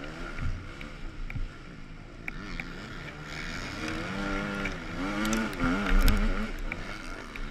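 Motocross bike engine running under hard throttle, its pitch rising and falling with throttle and gear changes and loudest about six seconds in, heard over wind noise, with a few sharp clicks.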